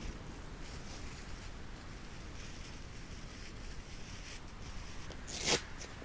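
Camping gear being handled: faint rustling over a low steady rumble, with one short, loud rasp like a zip being pulled about five and a half seconds in.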